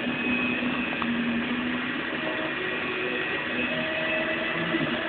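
Model train running on its track: a steady whir from its small electric motor.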